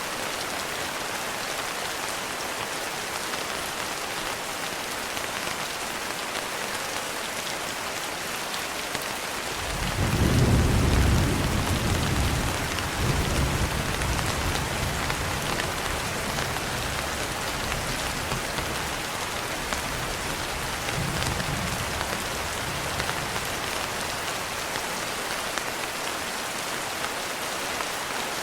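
Steady rain falling, with a roll of thunder about a third of the way in. The thunder is loudest for a couple of seconds, rumbles on and fades, and a smaller rumble follows later.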